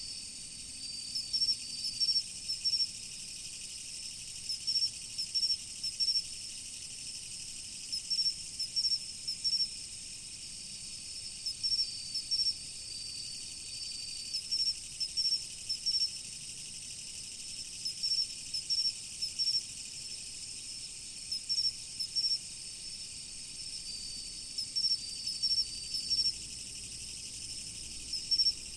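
Autumn insects, crickets among them, chirping: a steady high-pitched insect chorus with one insect repeating short chirps in small groups about once a second, and now and then a longer trill.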